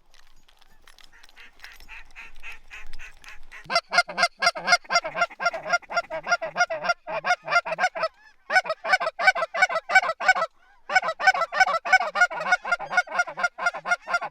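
Goose honking and clucking in rapid, evenly spaced notes, about five a second. The calls are faint at first and grow loud a few seconds in, then run in three long runs broken by short pauses.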